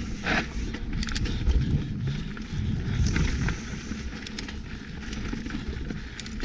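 Mountain bike ridden fast down a dirt singletrack: wind buffeting the action camera's microphone and tyres rumbling over the ground, with scattered clicks and knocks from the bike rattling over roots and rocks.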